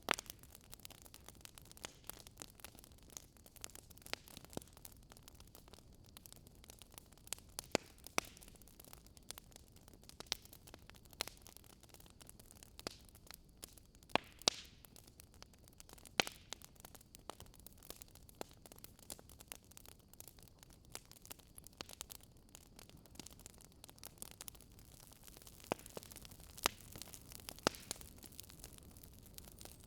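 Wood fire crackling: faint steady hiss with scattered sharp pops and snaps, a few louder ones standing out.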